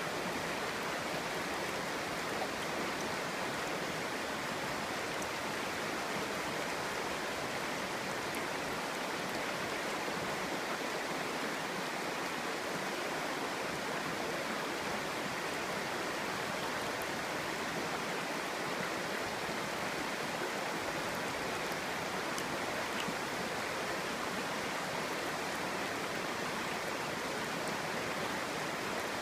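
Clear stream flowing and babbling over rocks, a steady rush of water.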